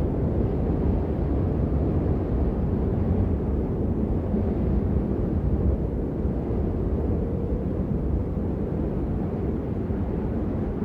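Steady, muffled rain: an even, deep rumble of noise with little high hiss, unchanging throughout.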